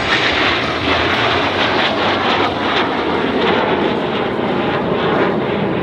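Jet noise from a formation of Canadair CT-114 Tutor jet trainers flying past, a steady loud rush with no break.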